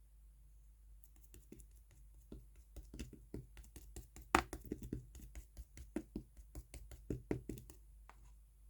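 Hands pressing and poking a clay slime, giving an irregular string of small clicks and pops, with one sharper pop about halfway through.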